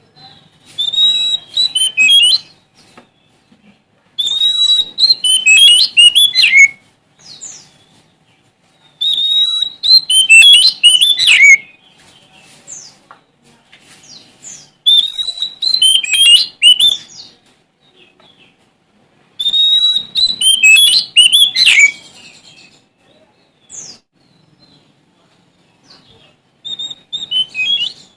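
Sumatran oriental magpie-robin (kacer) in full song, singing as if challenging a rival: five loud phrases of whistles and trills, each about two seconds long and a few seconds apart, with a few short single notes in the gaps.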